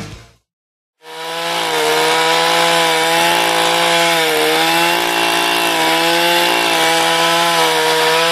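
Chainsaw engine running steadily, its pitch wavering a little, starting abruptly about a second in after a moment of silence.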